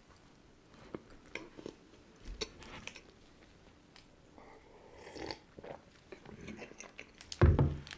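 Chewing a soft sandwich cookie, with scattered quiet bites and mouth sounds. About halfway through comes a sip of tea from a glass mug, and near the end a louder thump.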